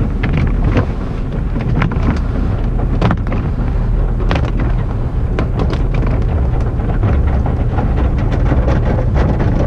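Car-wash tunnel equipment heard from inside the car: the cloth strips of a mitter curtain slapping and dragging over the car amid water spray. A steady low rumble runs under many sharp slaps.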